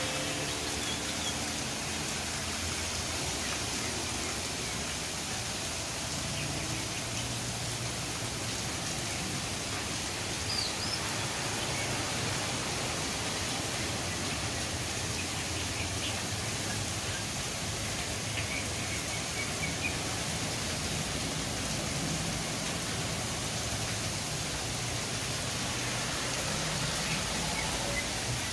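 Heavy rain falling steadily, an even, unbroken rush of noise.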